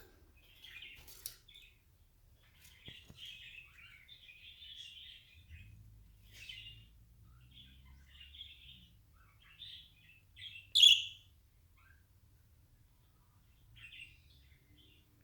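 Pet birds chirping in short, scattered calls, with one much louder, sharper chirp about eleven seconds in.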